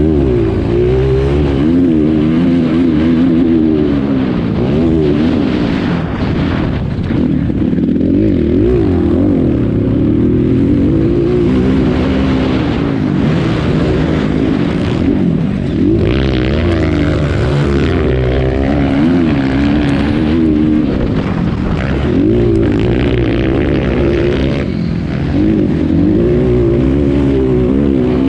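Motocross dirt bike engine revving, its pitch climbing and dropping again and again through the whole stretch as the throttle is opened and shut.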